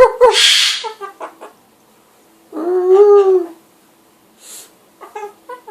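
Pet animal calls: a short pitched call, then a loud hissing screech, and about two and a half seconds in a long call that rises and falls. A few short chirping notes follow near the end.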